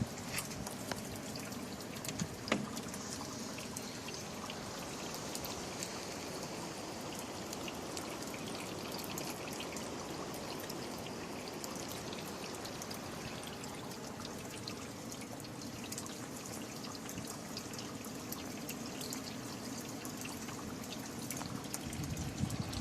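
Rain from a storm falling steadily, a constant wash of water with many small drop ticks and trickling runoff. There is one sharper tick about two and a half seconds in.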